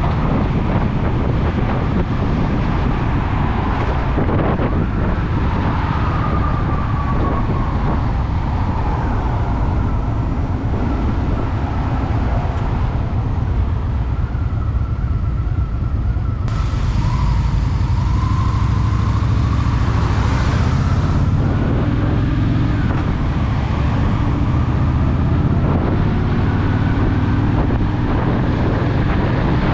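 Honda Shadow VT750's V-twin engine running under way, its note rising and falling with the throttle, over wind rushing on the helmet camera's microphone. The wind rush grows louder for a few seconds about halfway through.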